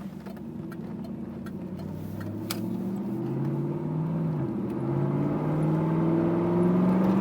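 1998 Pontiac Firebird Formula's LS1 V8 accelerating, the engine note rising steadily in pitch and growing louder. About four seconds in the pitch briefly drops as the 4L60E automatic upshifts, then climbs again.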